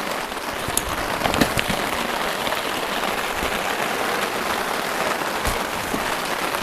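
Heavy downpour of rain falling steadily, with a few brief sharp knocks in the first couple of seconds.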